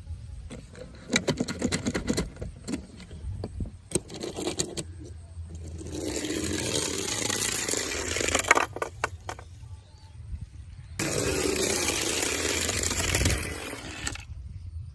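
Small toy cars clicking and clattering as they are handled, then two steady scraping stretches of two to three seconds each.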